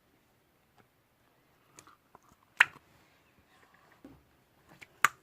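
A scattering of short, sharp, crunchy clicks and soft squishes from close-up handling, with the loudest snap about two and a half seconds in and several more near the end.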